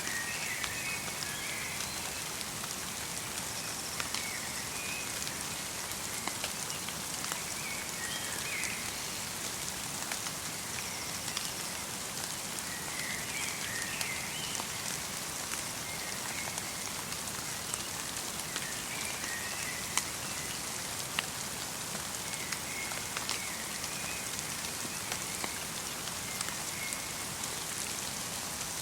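Light rain falling in a forest: a steady hiss with individual drops ticking. Short chirping bird calls come in every few seconds.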